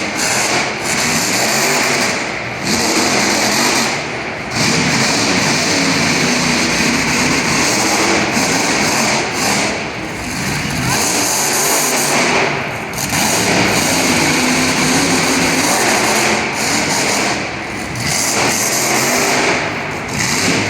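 Monster truck engine revving hard during a freestyle run, loud and unbroken. The throttle comes off for a moment several times before the engine revs up again.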